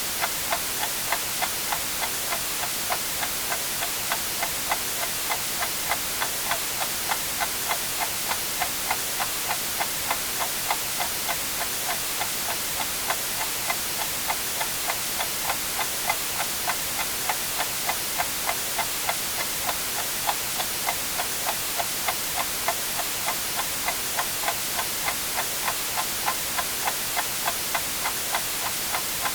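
Clock ticking evenly, about two ticks a second, over a steady hiss of white noise.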